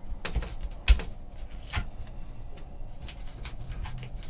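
A trading card super pack being opened and its contents handled: scattered rustles and clicks of packaging and cards, with a sharper knock about a second in.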